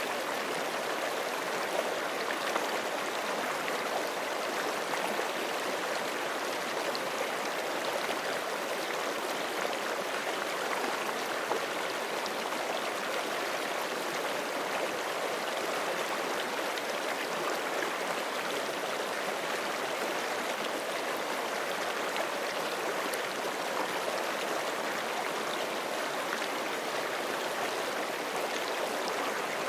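Forest stream flowing steadily over rocks: a continuous rushing and babbling of water with small splashes and gurgles.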